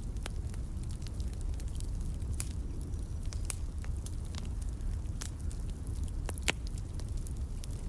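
Wood fire burning in a fireplace: irregular sharp crackles and pops over a low, steady rumble, with one louder pop about six and a half seconds in.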